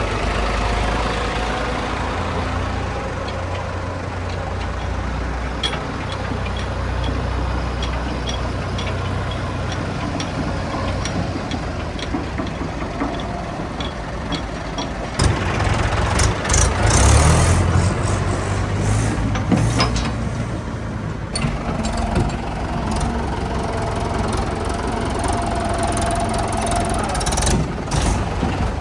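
Heavy diesel engine running steadily, with a stretch of knocks and clatter about 15 to 20 seconds in.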